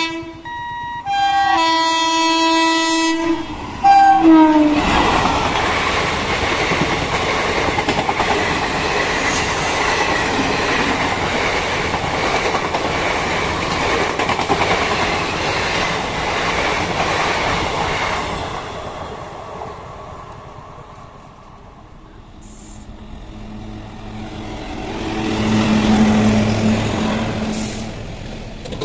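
Indian Railways WAP-4 electric locomotive sounding its horn in several blasts over the first four seconds, the last one dropping in pitch as it passes. An express train then rushes past with a steady clatter of coach wheels for about fifteen seconds, fading away. Near the end a WAG-7 electric locomotive hauling a freight train passes close with a low hum, followed by the rumble of its wagons.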